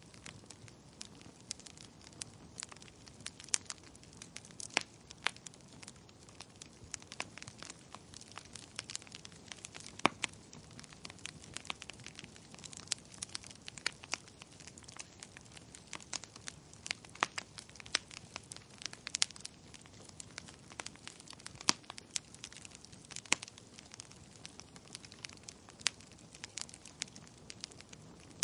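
Wood fire burning in a fireplace, with irregular sharp crackles and pops over a soft low hiss.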